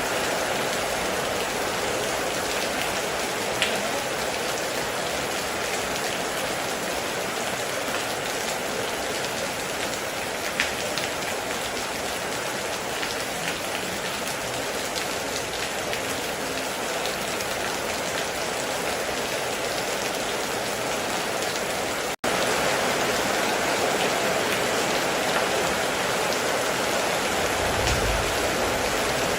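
Heavy rain falling steadily, an even hiss with the odd louder drop. It cuts out for an instant about two-thirds through, and a short low rumble comes near the end.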